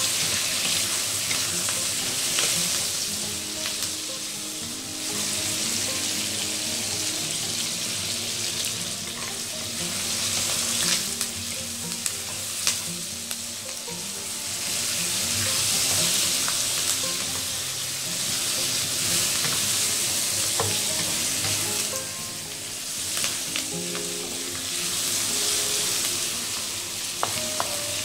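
Vegetables and curry leaves sizzling in hot oil in a stainless steel wok while a wooden spatula stirs and scrapes them, with occasional sharp knocks of the spatula against the pan. The sizzle swells and fades in waves as the food is turned. This is the sauté stage, the curry leaves being fried until fragrant.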